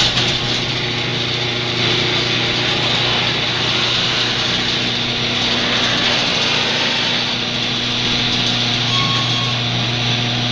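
Automatic garage door opener running steadily as it moves the door: a motor hum under an even mechanical whirr.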